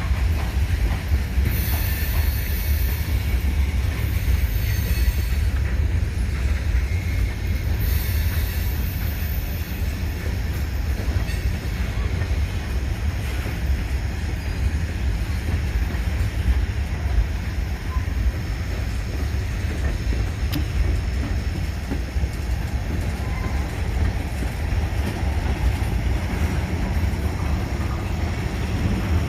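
Freight train's tank cars rolling past at close range: a steady heavy rumble of steel wheels on rail that holds even throughout.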